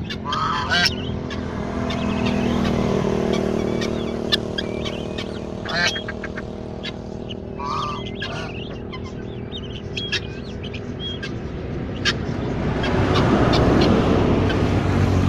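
Farm ducks quacking among other farm birds calling, over a steady low hum. A rushing noise swells near the end.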